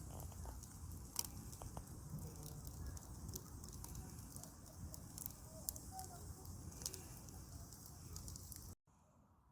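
Wood fire crackling, with scattered sharp pops from the burning logs. The sound cuts off suddenly near the end.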